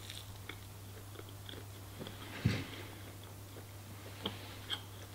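A person chewing and biting into oven-baked fried chicken close to the microphone, with small scattered clicks of the mouth and food. One louder thud about two and a half seconds in.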